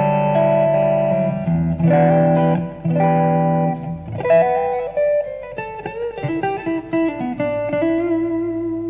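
Ibanez AZ242PGB electric guitar played clean on its neck pickup: ringing chords, then a single-note lead line with bends, ending on a long held note that fades out.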